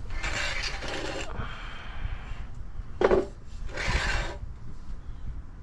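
A level being moved and set down on a wooden beam: rubbing and scraping on the wood, with one sharp knock and brief ring about three seconds in.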